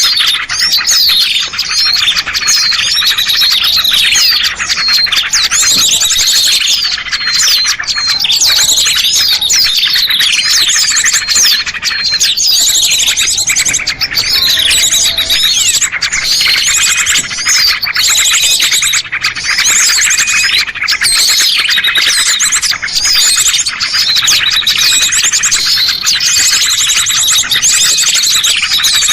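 Dense chorus of many small songbirds chirping and trilling at once, loud and unbroken: a recorded bird-lure (pikat) call meant to draw small birds down.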